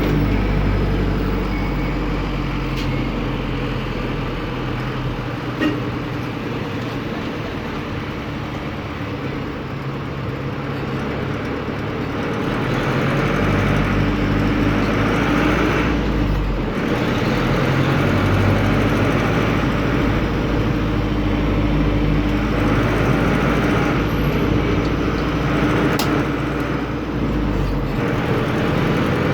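Air-cooled four-cylinder Deutz F4L912 diesel of an Otokar M-2000 minibus running under way, heard from the cab. The engine note rises and falls, with brief drops about midway and again near the end.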